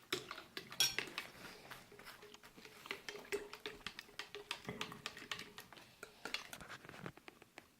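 Quick, irregular clicking and rattling of an MRE fruit punch drink being mixed, the powder not yet fully dissolved.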